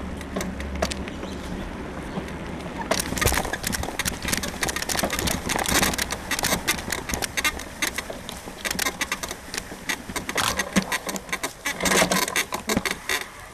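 Bicycle frame suspension creaking and clicking, which the rider puts down to a worn suspension bushing. A steadier rolling noise gives way about three seconds in to a dense, irregular run of sharp clicks and knocks.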